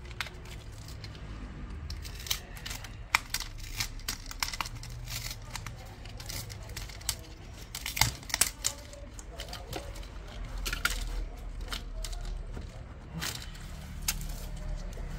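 Plastic snap-fit clips on a Lenovo ThinkBook 15IIL laptop's case being pried apart by hand: irregular sharp clicks and snaps, the loudest about three and eight seconds in.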